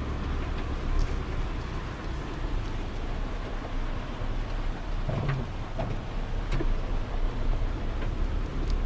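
Snowstorm wind rushing with a steady low rumble, and a few short ticks and taps scattered through.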